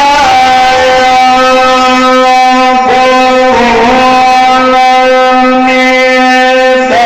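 A man's voice chanting Quran recitation, holding one long melismatic note with a brief waver in pitch about three seconds in.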